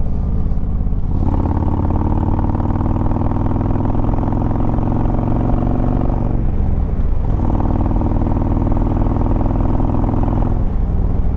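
2016 Harley-Davidson Road Glide Ultra's Twin Cam 103 V-twin pulling under throttle in sport mode. The engine note opens up about a second in, breaks off briefly about six and a half seconds in, as at a gear change, then pulls again until near the end.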